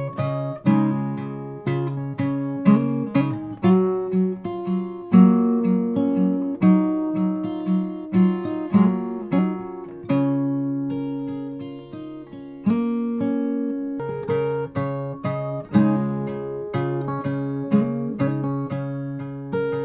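Background music: a fingerpicked acoustic guitar playing a gentle melody over a repeating pattern, with occasional strums.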